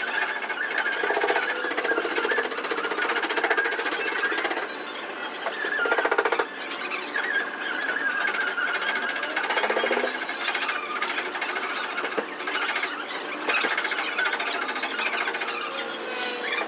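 A power tool chattering rapidly and steadily, in runs a few seconds long with short dips between them.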